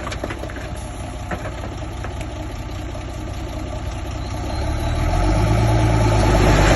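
Heavy diesel engine of earthmoving machinery running steadily, growing louder and deeper from about two-thirds of the way in, with a few light knocks in the first two seconds.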